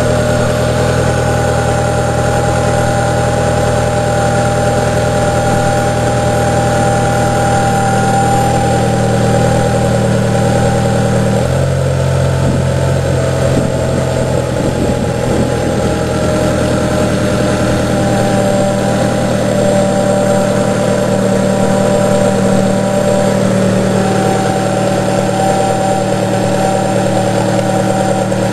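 Car engine idling steadily. About a third of the way in its note shifts abruptly, and its low hum drops away again later, with no revving.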